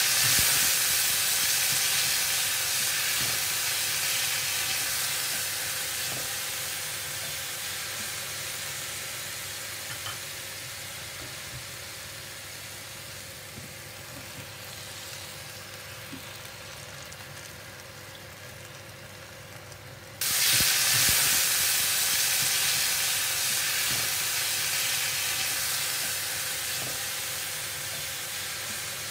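Sliced beef and then bok choy sizzling in hot oil in a frying pan, a steady hiss that slowly dies away, then jumps abruptly louder about two-thirds of the way through and fades again. Faint clicks of stirring.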